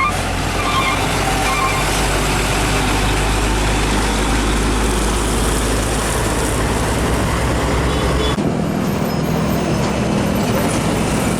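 Heavy trucks passing close on a highway: loud engine and tyre noise. A short run of beeps sounds in the first two seconds, and about eight seconds in the sound changes to a steadier engine hum.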